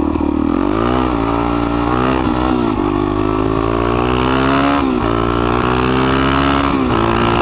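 Suzuki DR-Z400SM supermoto's single-cylinder four-stroke engine accelerating through the gears. The pitch climbs steadily, then drops sharply at each of three upshifts.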